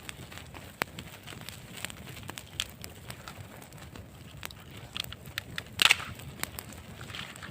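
Irregular sharp crackles and clicks, with a louder burst of them about six seconds in.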